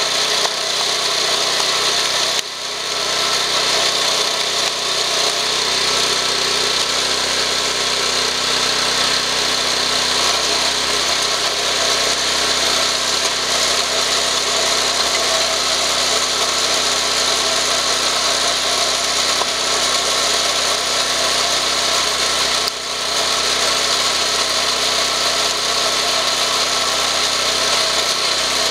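Engine of a screw-type cone log splitter running steadily, with two brief drops in level, one a couple of seconds in and one about 23 seconds in.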